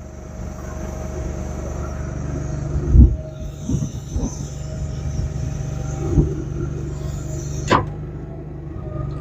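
Bucket truck's 6.8-litre V10 running with the aerial boom hydraulics engaged: a steady low hum that comes up over the first second, with several knocks and clunks and one sharp click near the end.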